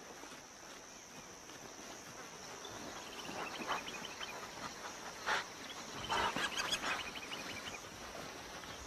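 Savanna field ambience dominated by a steady, high-pitched insect drone. Twice, short runs of rapid chirping pulses rise over it, with a few scattered clicks.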